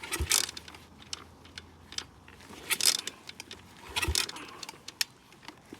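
Kick-starter of a cold 125cc dirt bike being stomped three times, each stroke a metallic clank with a low thud, with the engine not catching.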